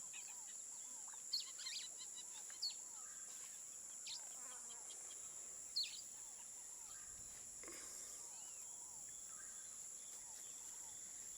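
Tropical rainforest ambience, faint: a steady high insect drone with scattered bird calls, a few short sharp chirps and many soft repeated little notes.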